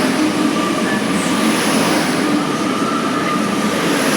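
A train running through the station close by: a steady rush of wheel and rail noise with a faint, even whine.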